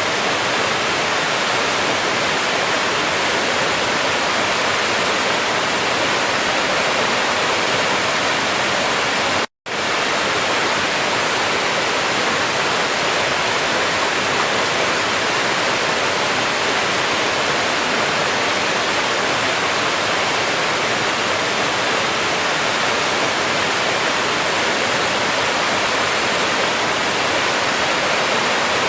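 Waterfall: water falling in a steady, even rush. The sound cuts out for a split second about ten seconds in, then carries on unchanged.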